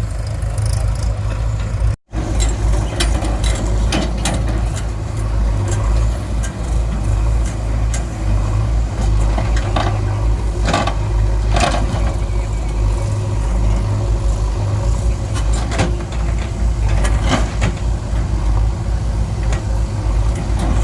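Heavy diesel machinery running steadily at a soil-loading site, with scattered knocks and clatters of the loader working. The sound cuts out for an instant about two seconds in.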